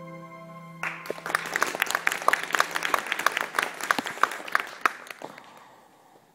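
The accompaniment's final chord rings on, then an audience claps, starting about a second in and dying away near the end.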